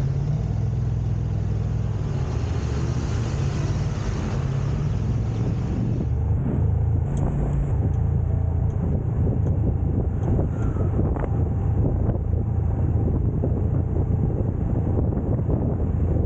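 Car driving along, with a steady low rumble of engine and tyre road noise.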